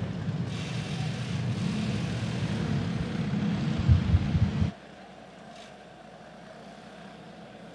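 Several single-cylinder clone kart engines running as the field paces, with a brief rise and fall in revs about four seconds in. Just under five seconds in the sound drops suddenly to a faint steady hum.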